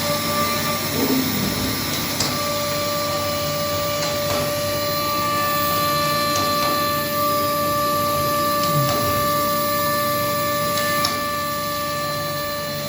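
Delta GLT 2113 milling system running: a steady machine whir with a high spindle whine that sets in about two seconds in, a few short pitch glides as the drives move, and some light clicks.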